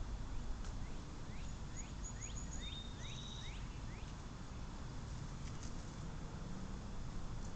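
Starling calls: a run of about seven short rising chirps over a few seconds, with a few thin high whistles among them, over a steady low rumble.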